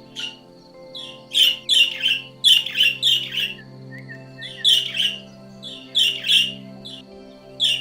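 A bird calling over and over with short, sharp chirps, often two or three in quick succession, over steady background music.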